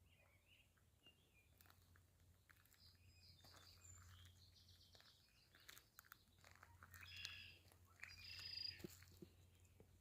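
Near silence with faint bird chirps and short calls, busiest near the end, over a steady low hum and a few soft clicks.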